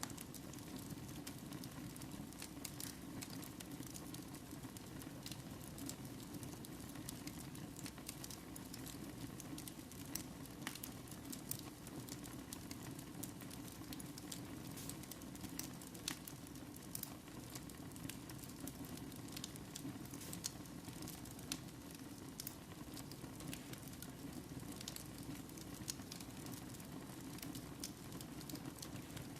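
Wood fire burning in a fireplace: a steady low rush with many small, sharp crackles and pops.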